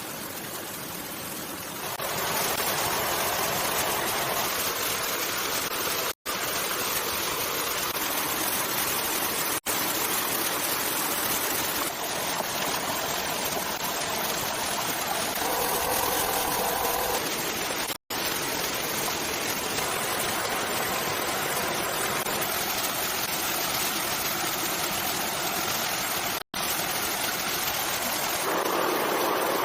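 Steady rushing water, cut off very briefly four times.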